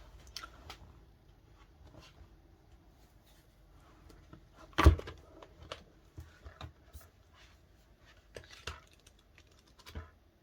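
Light clicks and rustling from handling a plastic DVD case and its cards and inserts, with one sharp click about five seconds in.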